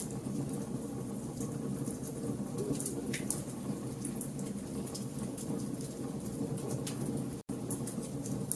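Campfire of burning logs crackling: a steady low rush of flame with scattered sharp pops and snaps. The sound drops out for a split second about seven and a half seconds in.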